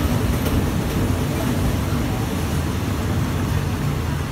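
Passenger train running on the rails, heard at an open carriage window: a steady rumble of wheels and track with rushing air.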